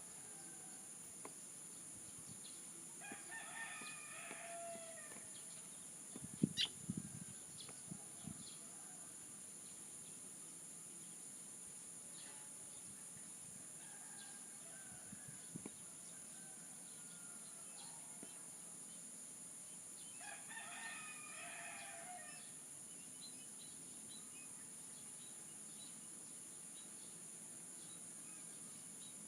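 A rooster crowing twice, each crow about two seconds long, a few seconds in and again about two-thirds of the way through. Behind it runs a steady high insect drone. A brief cluster of sharp knocks comes about six to eight seconds in and is the loudest sound.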